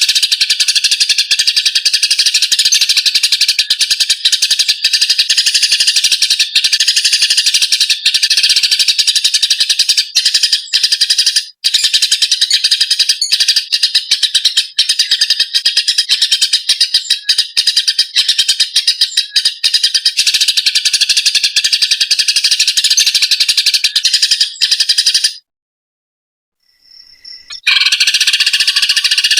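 Eurasian tree sparrows chirping in a dense, rapid, harsh chatter, the agitated calls of fighting sparrows. The chatter stops abruptly near the end for about two seconds, then starts again.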